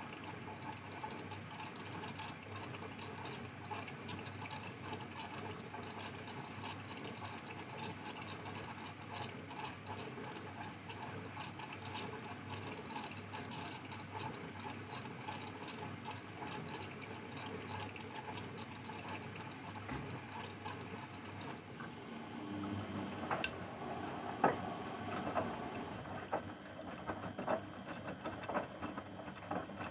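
Grundig washing machine taking in water: a steady rush and trickle of water into the drum. About 22 seconds in the sound changes to a low hum with a run of sharp clicks and knocks.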